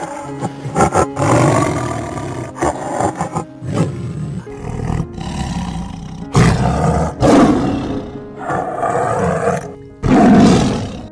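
Tiger roaring repeatedly, a series of separate roars with the loudest about six seconds in and near the end.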